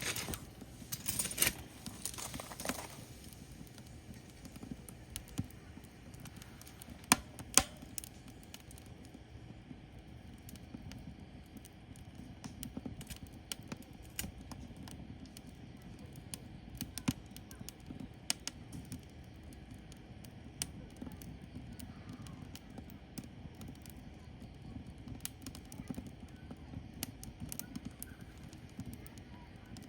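Firewood burning: irregular crackles and sharp pops over a low steady rumble of flames, with a flurry of louder pops near the start and two loud snaps about seven seconds in.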